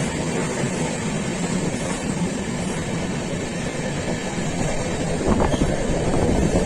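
Train running along the track with a steady rumble of wheels on rails, and a cluster of louder knocks and clatter about five seconds in.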